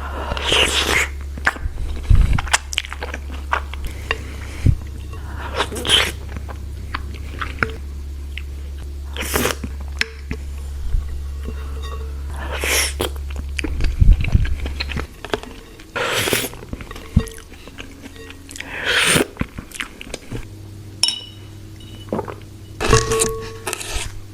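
Close-miked eating: crunchy bites into crispy spring rolls and chewing, loud bites coming every three seconds or so. A low steady hum runs underneath and drops away about halfway through.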